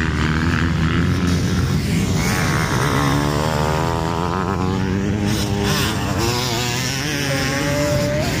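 Several motocross bikes racing on a dirt track, their engines revving up and down as they pass and shift.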